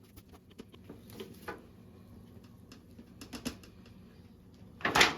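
Scattered light clicks and taps of handling in a quiet room, with a short, louder burst of noise near the end.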